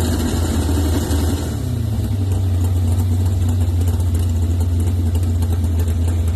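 Pull truck's 598-cubic-inch Dart big block Chevy V8 running, easing down from a light rev to a steady, lumpy idle in the first two seconds.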